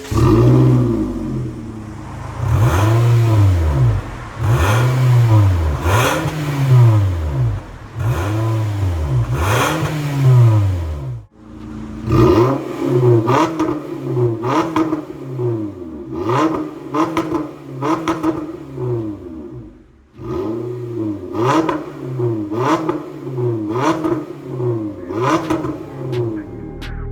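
Toyota Corolla Cross 1.8-litre four-cylinder engine being revved repeatedly through an MS-R valved aftermarket muffler, each rev rising and falling back within about a second. A quicker series of revs begins near the middle, then another after a brief dip.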